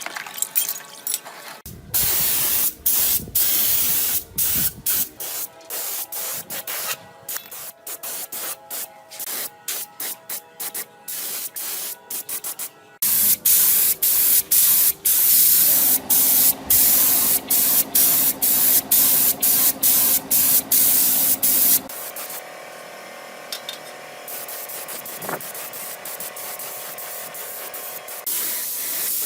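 Loud hiss of spraying in many short bursts that start and stop abruptly, with one longer spray in the middle.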